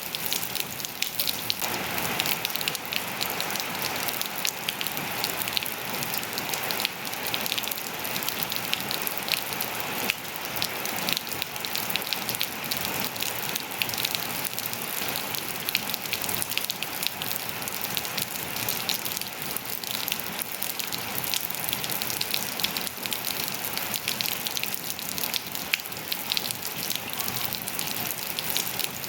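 Steady rain falling on hard surfaces and foliage, a constant hiss with many small drop taps.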